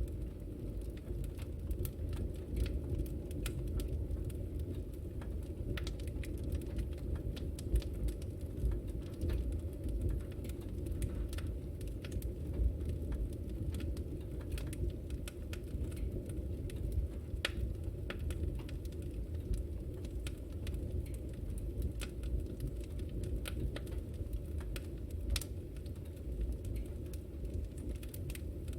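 Wood fire in a fireplace burning steadily with a low rumble, and sharp crackles and pops at irregular intervals.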